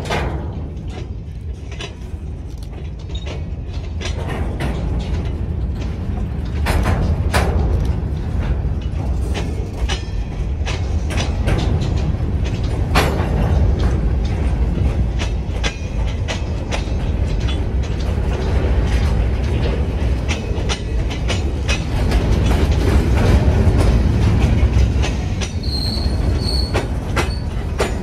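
Train of tall open-top wood-chip hopper cars rolling slowly past, steel wheels clicking and clanking over the rail joints under a low rumble, with a few brief high wheel squeals near the end.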